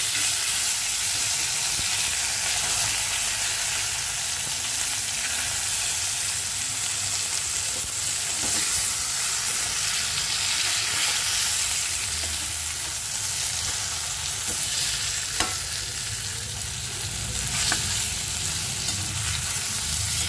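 Stuffed ridge gourd pieces sizzling steadily in shallow oil in an aluminium pan, frying on their second side after being turned over. A few sharp clicks come through the sizzle.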